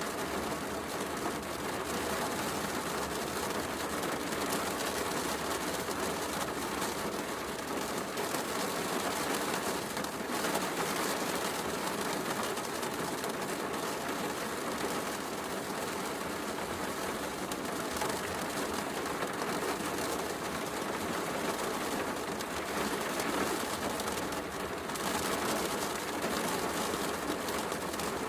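Heavy rain falling steadily, mixed with the faint crackle of a wood fire in a fireplace.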